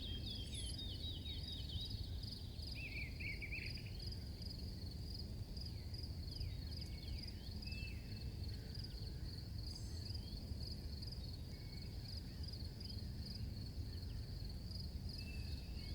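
Faint nature ambience: a steady, pulsing insect chirr, like crickets, with a few short scattered bird chirps over a low background rumble.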